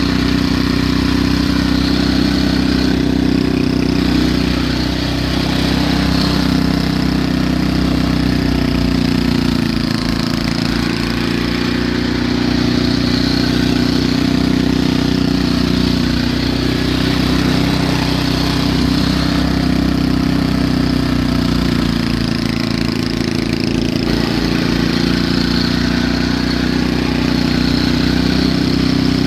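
A snowblower's engine running steadily and loudly, its pitch sagging briefly a few times as it takes load.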